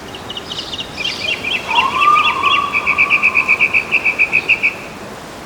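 Birdsong: a run of quick high chirps, then a fast, even trill of repeated notes, about seven a second, with a lower whistled note that rises and then holds beneath it. The song stops near the end.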